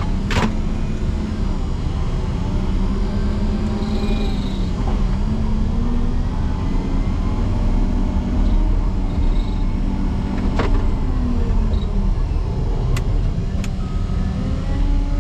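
Motor grader's diesel engine working under heavy load as its V-plow pushes into hard-packed drift snow, the engine note wavering and dipping about five seconds in and again near the end, with a few sharp knocks along the way.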